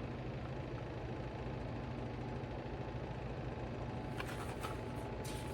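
A steady low hum, like a running appliance or room background noise, with a few light clicks and rustles near the end.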